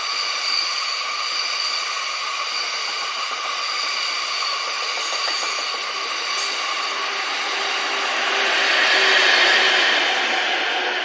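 Locomotive-hauled passenger train, EF81 electric locomotives with 26-series coaches, running past with its wheels squealing in steady high whines over the rush of the running gear. The noise swells about nine seconds in and then begins to fade.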